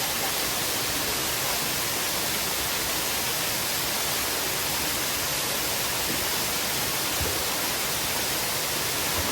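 Waterfall and stream water rushing, a steady, even hiss with no breaks.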